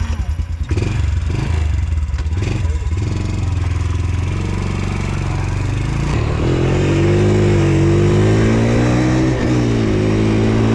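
Dirt bike engine revving up and down several times, then running steadily with its pitch slowly climbing.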